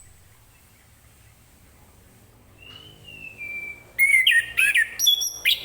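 Orange-headed thrush (anis kembang) singing: a soft, drawn-out whistle a little under three seconds in, then a loud run of quick, varied notes over the last second and a half.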